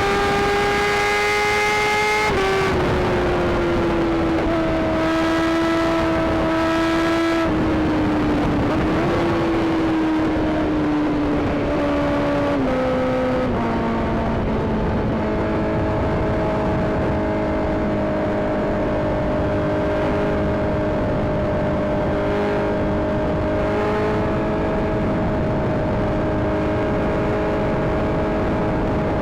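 Inline-four sport motorcycle engine running under way. Its note steps down in pitch several times in the first half, then holds steady at an even speed from about halfway through. A rushing hiss lies under it for the first seven seconds or so.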